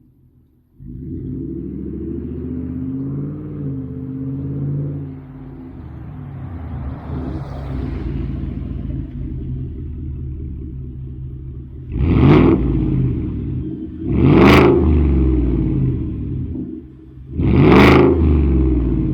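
Ford F-150's engine through a Borla ATAK performance exhaust: a low, steady rumble comes in about a second in. It is broken near the end by three loud, brief surges, which fit hard throttle blips or acceleration bursts.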